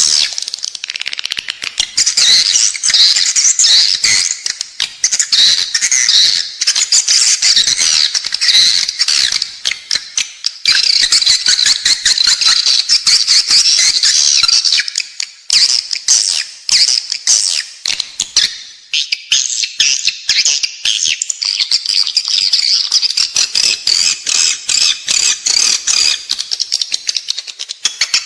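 Edible-nest swiftlet calls used as a nest-house lure: a dense, continuous chatter of rapid high chirps and twitters with fast clicking, overlapping with no break.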